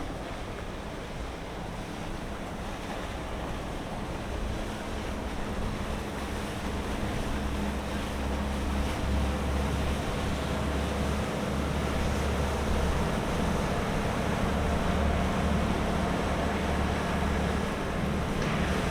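Wind on the microphone over the wash of water, with the low steady drone of a boat engine that grows louder from about six seconds in.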